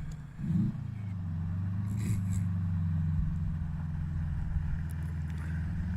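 2015 Subaru STI's turbocharged 2.5-litre flat-four engine running through a muffler-deleted exhaust: a steady low drone, with a brief rise and fall in engine pitch about half a second in.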